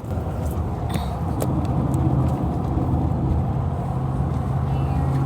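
Engine and road noise inside a moving car's cabin: a steady low rumble and hum at highway speed, with a few faint clicks about a second in.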